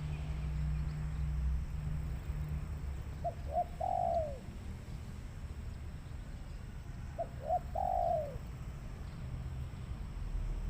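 Spotted dove cooing twice, about four seconds apart, each phrase two short notes followed by a longer falling coo, over a steady low rumble.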